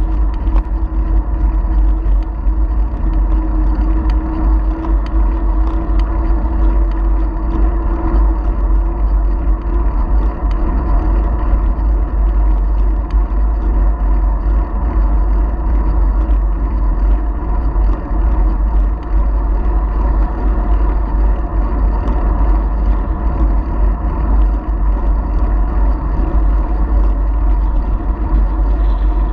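Continuous riding noise from a bicycle-mounted action camera: heavy low wind rumble on the microphone with tyre and road noise and a steady hum, unchanging throughout.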